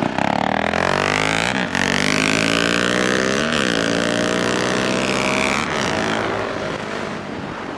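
Single-cylinder motorcycle engine under hard acceleration in a drag race, its pitch climbing in each gear with three quick upshifts about two seconds apart. It then eases off and the engine note drops near the end.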